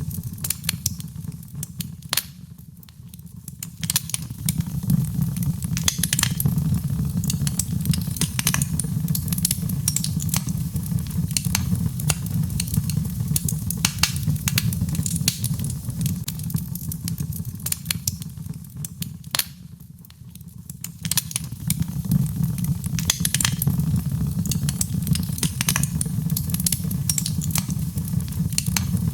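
Birchwood burning in a fireplace, with frequent sharp crackles and pops over a steady low rumble of flame. The rumble drops away briefly twice, a few seconds in and again about two-thirds of the way through.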